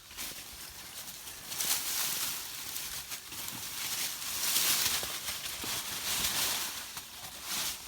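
Branches and dry leaves of a fallen tree limb scraping and rustling against clothing and the camera as someone pushes through them, in several swells with a few sharp twig snaps and clicks.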